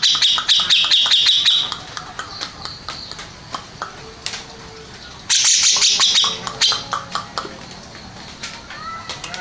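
Grey-cheeked bulbul (cucak jenggot) singing: a loud, fast run of high repeated notes at the start, then a second shorter run about five seconds in, with scattered sharp clicks between them.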